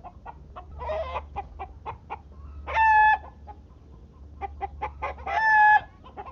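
Chickens clucking in short, irregular notes, with two louder, drawn-out calls of about half a second each, one midway and one near the end.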